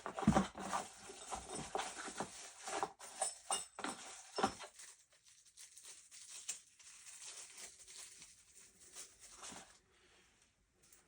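Handling noise of small gun parts and packaging: a quick run of clicks, knocks and rustles, busiest in the first few seconds, then fainter scattered rustling that dies away near the end.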